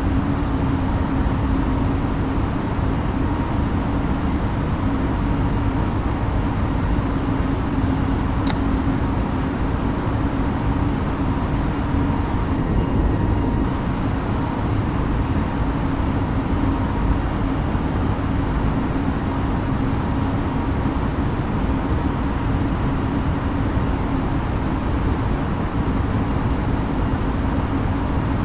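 Steady cabin noise inside an Airbus A320neo airliner in flight: a constant roar of engines and airflow with a steady low hum, and one short click about eight seconds in.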